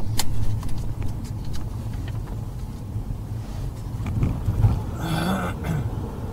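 Car engine running with a steady low hum, heard from inside the cabin, with a few light clicks and a short higher-pitched sound about five seconds in.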